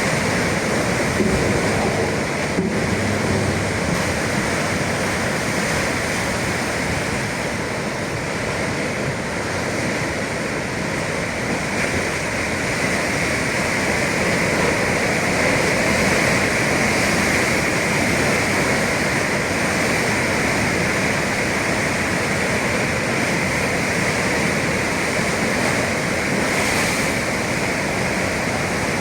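Atlantic sea waves surging and breaking against the shore: a steady rushing of surf that swells and eases slowly.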